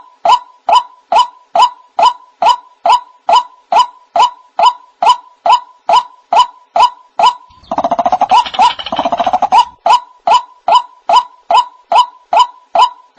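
White-breasted waterhen calling: a steady, evenly spaced series of loud, short notes at about two a second. About eight seconds in, the series is broken by two seconds of rapid, stuttering notes.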